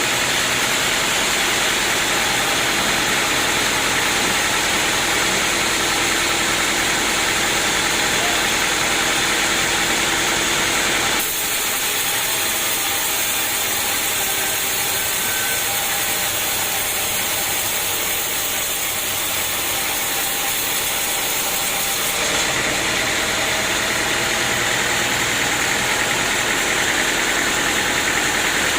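Sawmill machinery running steadily with an engine-like drone. The sound changes abruptly about eleven seconds in and again about twenty-two seconds in.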